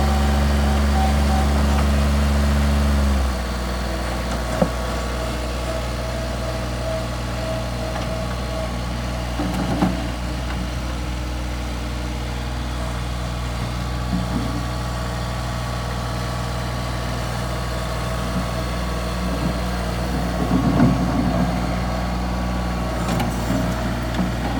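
Bobcat 463 skid-steer loader's diesel engine running at raised throttle, then dropping to a steady idle about three seconds in. A few faint knocks and rattles come later.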